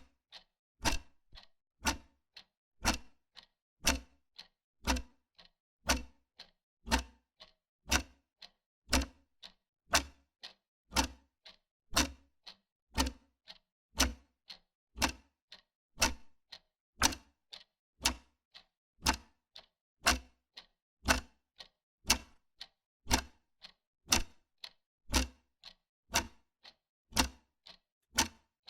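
Wall clock ticking steadily, with sharp, evenly spaced ticks in a regular beat.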